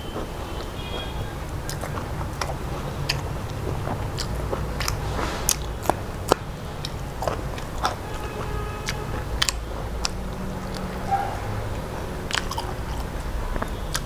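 Close-up eating sounds of a man chewing a mouthful of rice and mustard greens, with many scattered sharp clicks and smacks.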